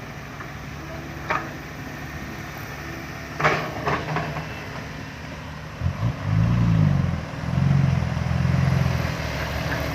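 Loaded six-wheel dump truck's diesel engine running low, then from about six seconds in revving hard and labouring as the truck climbs out of the pit with a load of soil, the pitch rising and falling. A few sharp knocks sound in the first half.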